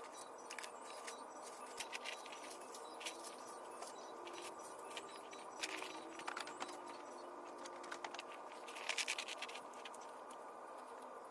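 Scattered light clicks and crackles over a steady hiss, with a louder burst of crackling about nine seconds in.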